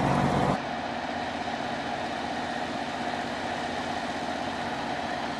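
Vehicle engine idling steadily. About half a second in, the sound drops abruptly to a quieter idle with a lower tone.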